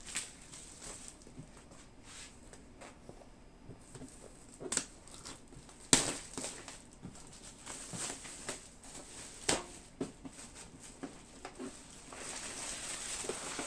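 Packaging of a model ship kit being opened and handled: scattered knocks and clicks, the sharpest about six seconds in, with a stretch of rustling near the end.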